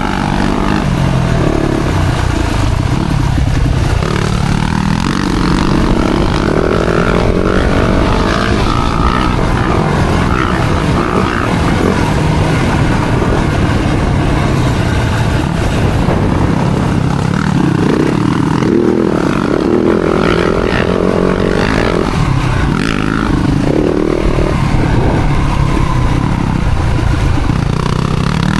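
Yamaha four-stroke motocross bike engine being ridden hard, its pitch repeatedly rising and falling as the throttle is opened and closed.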